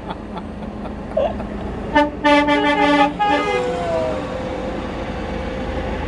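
A vehicle horn toots: a short blip about two seconds in, then a longer toot of under a second, followed by a sound sliding down in pitch. Vehicle engines rumble steadily underneath.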